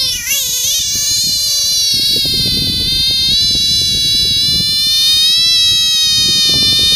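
A large frog held in the hand giving its distress scream: one long, high-pitched, continuous cry that wavers at first, then holds steady and rises slightly in pitch.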